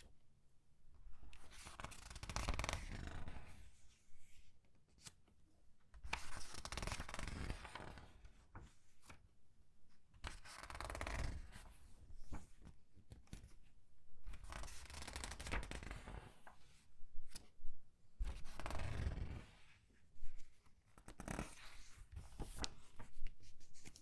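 Comic book pages being turned slowly one at a time and squeezed, the paper rustling and crinkling in a swell about every four seconds, with a few sharp crackles.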